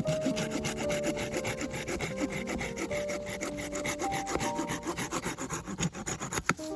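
Hand saw cutting through wood, with rapid, even back-and-forth strokes, likely firewood being cut for the fire; a sharp knock shortly before the end.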